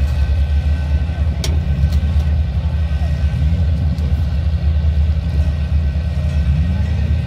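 Steady low rumble of demolition derby engines and heavy equipment running in the arena, with one sharp knock about a second and a half in.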